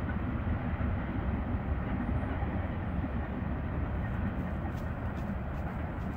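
Norfolk Southern freight train passing out of view, a steady low rumble with a few faint clicks near the end.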